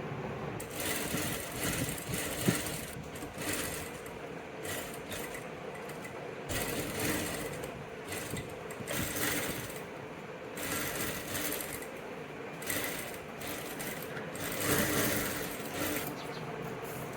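Sewing machine stitching in short runs of about a second each, stopping and starting about nine times.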